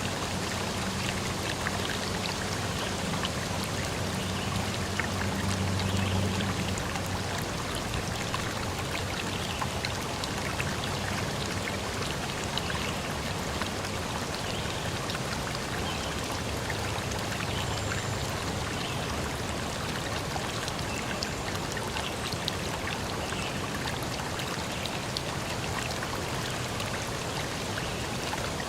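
Steady rush of running water, as a forest stream or rainfall makes, with a faint low hum in the first few seconds.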